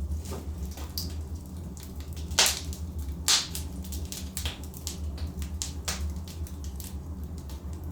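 Wood fire burning in a fireplace: irregular sharp crackles and pops of burning logs, two louder pops about two and a half and three and a half seconds in, over a steady low rumble of the flames.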